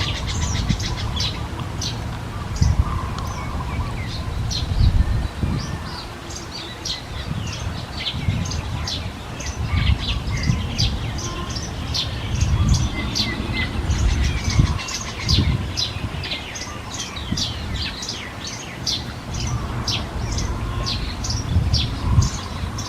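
Small birds chirping in a steady stream of short, high chirps, several a second, over an irregular low rumble with bumps.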